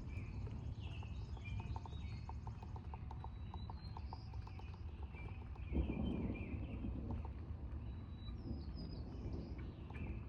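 Outdoor storm ambience: birds chirping over a steady low rumble, with a rapid ticking call, about three to four ticks a second, through the first two-thirds. About six seconds in, a sudden louder low rumble of thunder breaks in and fades over a second or two.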